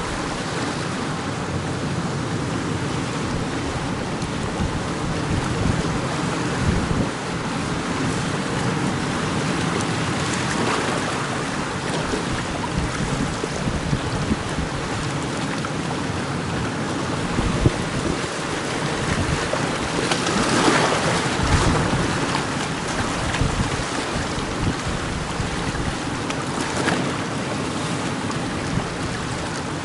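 Strong wind and surf at a rocky cape: a constant rush of sea with wind buffeting the microphone, and louder surges as bigger waves break, about a third and two thirds of the way through.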